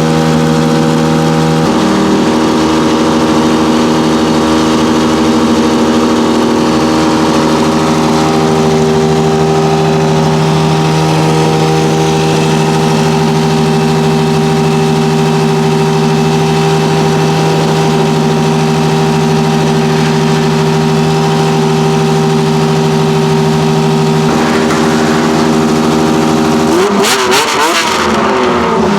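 Ferrari 1512's 1.5-litre Tipo 207 flat-12 engine running steadily at one engine speed. Near the end its pitch swings up and down as it is revved.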